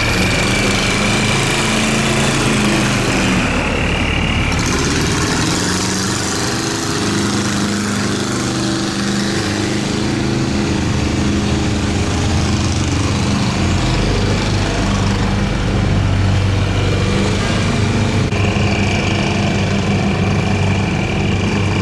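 Boat engines running steadily on the river. The low engine hum shifts in pitch about four seconds and again about thirteen seconds in, and a thin high whine comes and goes.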